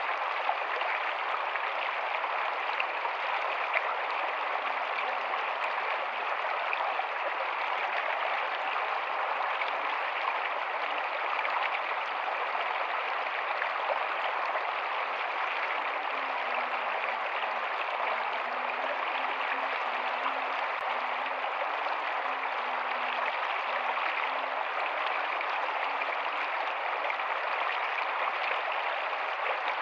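Rocky stream flowing, a steady rush of water over stones.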